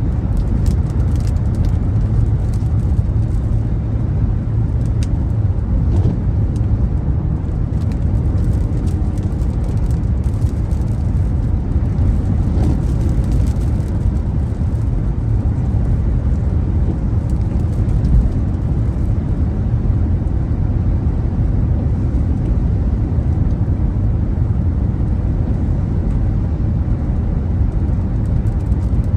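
Strong wind buffeting the microphone: a loud, steady low rumble with irregular gusty crackle.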